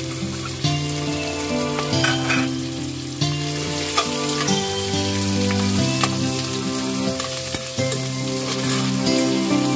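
Pork belly slices sizzling in hot oil in a nonstick pan, with garlic, as a spatula stirs them, giving a steady frying hiss with scattered ticks and knocks. Background music with held notes plays underneath.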